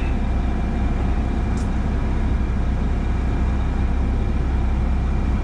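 Grain truck's diesel engine running with a steady low drone.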